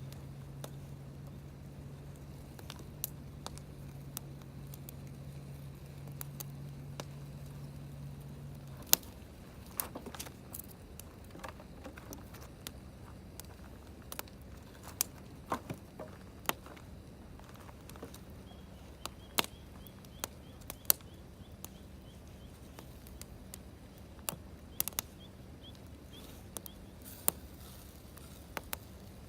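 Campfire crackling, with sharp irregular pops from the burning wood. A steady low hum runs under it for about the first nine seconds and then stops.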